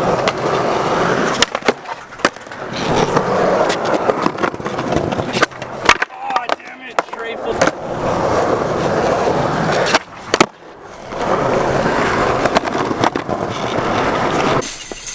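Skateboard wheels rolling on pavement, a rough steady rumble broken by sharp clacks of the board, with the rolling dropping out briefly twice, about six and ten seconds in.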